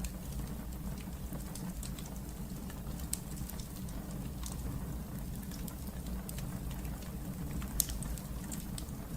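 Wood fire burning in a fireplace: a steady low rumble with frequent sharp crackles and pops at irregular intervals, one louder pop near the end.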